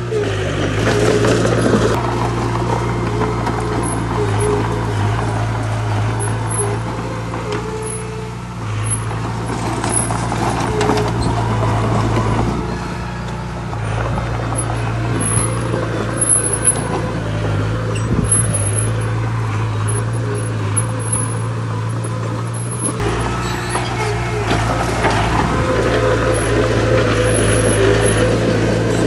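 Heavy diesel earthmoving machinery running steadily, with a higher whine that comes and goes and scattered clattering of stone.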